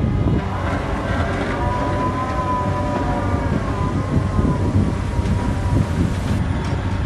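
Backhoe's diesel engine running under load while digging, with a wavering high whine from about a second in that fades out past the middle.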